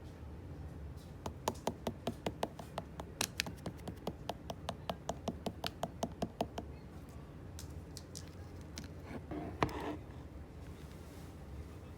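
Slime being pressed and poked with the fingers, giving a quick, even run of sharp sticky clicks, about four a second, for roughly five seconds. After a pause there is a single longer squish about nine seconds in.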